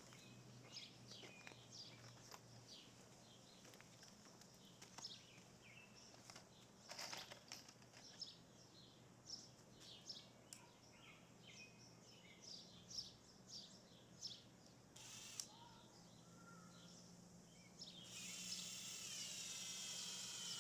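Faint birdsong: scattered short chirps and calls of small birds. A steady hiss comes up near the end.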